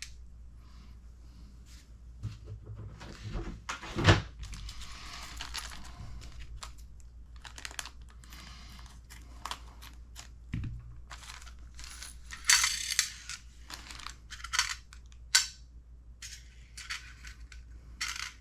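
Small hard kit parts, such as bearings and transmission pieces, clicking and clinking as they are handled and set down on the bench, with a few short stretches of rustling. The sharpest clicks come about four seconds in and again about twelve to thirteen seconds in.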